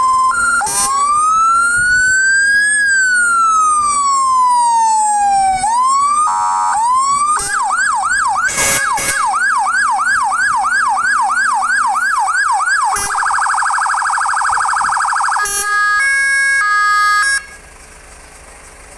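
Fire engine's electronic siren cycling through its tones: a slow wail rising and falling, then a fast yelp at about three sweeps a second, a rapid warble, and a high-low two-tone. It then cuts off suddenly near the end. Two short loud blasts sound during the yelp.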